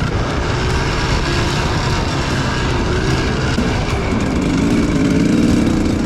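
Dirt bike engine running under riding, its pitch rising and falling as the throttle opens and closes.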